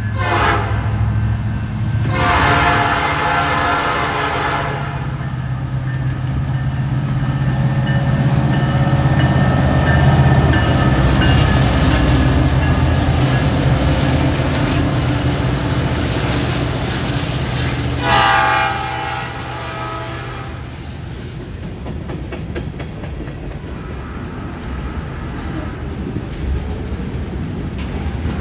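CN freight train led by three diesel locomotives passing: the air horn gives a brief blast at the start, a long blast about two seconds in and another near the 18-second mark. Between the blasts the locomotives' engines rumble steadily, loudest in the middle, followed by the rattle and clicks of wheels on the rails.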